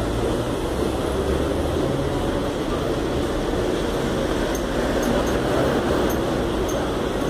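Electric commuter train pulling out of a station, a steady rumble of its running gear on the rails.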